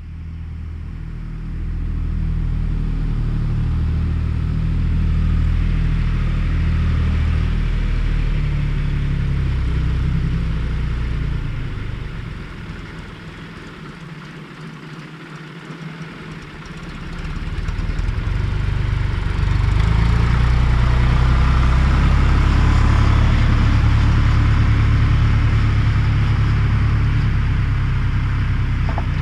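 John Deere 1030's three-cylinder diesel tractor engine running steadily under work, easing off for a few seconds around the middle, then louder and steady from about 18 seconds on.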